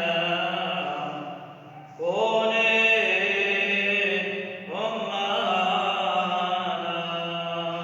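A priest's solo voice chanting an Arabic Christian liturgical prayer in long, held melodic phrases. A new phrase begins about two seconds in and another just before five seconds, over a steady low drone.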